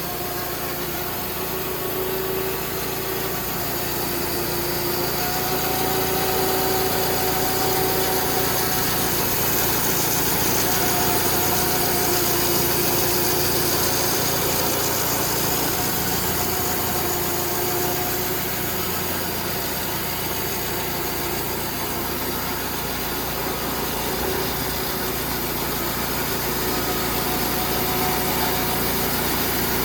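An engine running steadily at a low, even speed, its pitch wavering slightly.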